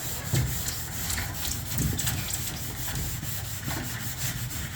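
Red Scotch-Brite abrasive pad scrubbing the aluminum tube of a truck headache rack, wet with glass cleaner, in repeated back-and-forth strokes of about three a second.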